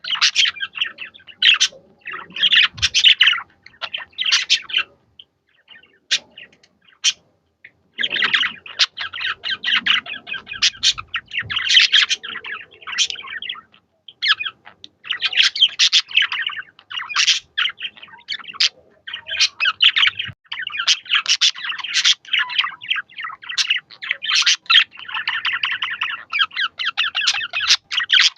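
Budgerigars chattering and warbling: rapid, dense chirps and squawks, with a sparser lull of a few scattered chirps about five seconds in before the chatter resumes.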